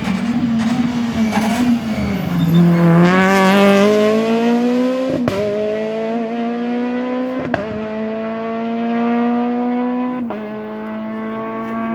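Rally car accelerating hard through the gears: the engine's pitch climbs, drops sharply with a crack at each of three upshifts about two and a half seconds apart, and climbs again after each one.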